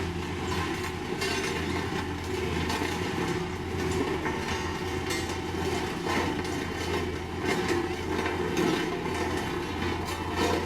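Heavy diesel construction machinery running steadily, a low engine hum under a continuous rattling clatter with occasional knocks.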